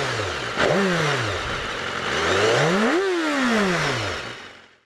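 BMW S1000RR inline-four engine revving through its exhaust: two short throttle blips, then a longer rev that climbs for about a second and falls away. The sound fades out near the end.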